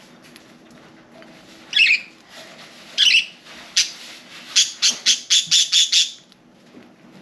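Budgerigars calling: two loud squawky chirps about two and three seconds in, then a quick run of about eight short, sharp chirps, some four a second, that stops about six seconds in.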